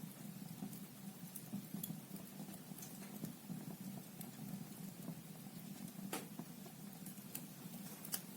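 Logs burning in a fireplace: a steady low rumble of the flames with scattered sharp crackles and pops, one louder pop about six seconds in.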